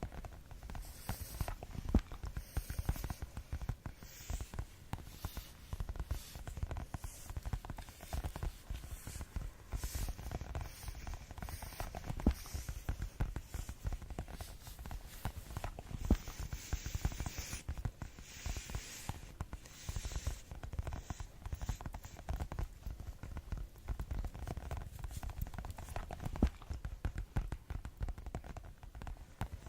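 Fast ASMR tapping on objects: a steady, unbroken stream of light, quick taps, many a second.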